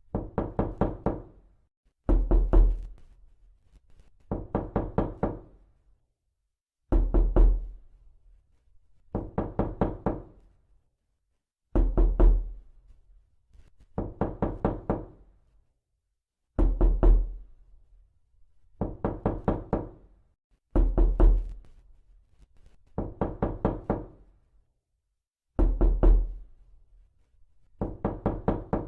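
Repeated knocking in quick bursts of four to six knocks, a burst about every two seconds with silence between; every other burst opens with a heavier, deeper thud.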